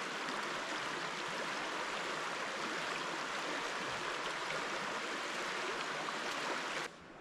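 Steady rushing of a stream, an even hiss of running water that cuts off suddenly near the end.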